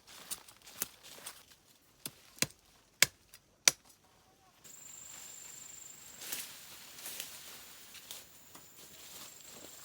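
A series of sharp knocks, about six in the first four seconds, the last two the loudest. About halfway through they give way to a steady high whine over an outdoor hiss, with a few faint knocks.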